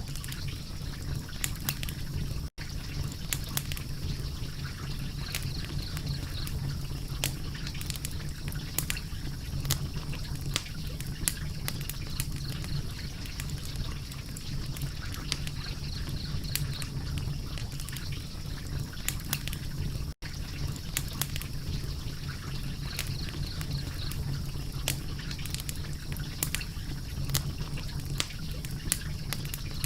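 A wood fire crackling, with a steady low rush and irregular sharp pops and snaps throughout. The sound cuts out for an instant twice, about two and a half seconds in and again about twenty seconds in.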